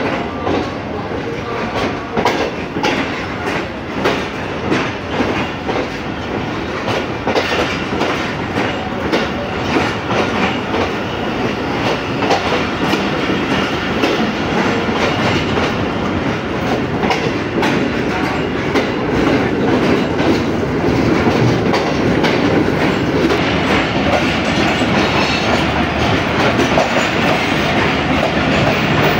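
Passenger coaches of an express train rolling past along a platform: a steady clickety-clack of wheels over the rail joints on top of a continuous rumble, growing a little louder in the second half.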